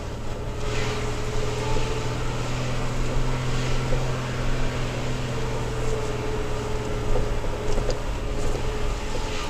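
Third-generation Toyota Tacoma driving off-road, heard from inside the cab: a steady low engine hum over a constant wash of tyre and road noise.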